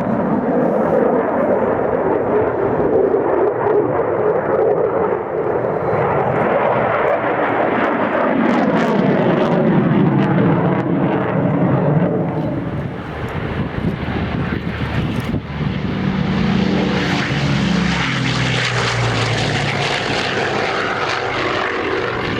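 Aircraft engines as a plane flies past, a steady loud noise whose pitch slides down as it passes.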